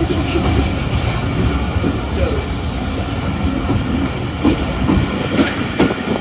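Passenger train running: the steady rumble of the moving coach, with the wheels clacking over rail joints in a few sharp knocks in the last couple of seconds.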